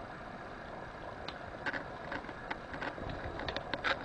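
A thin cellophane wrapper crackles and crinkles in short, irregular clicks that grow more frequent toward the end, over a steady low background hum.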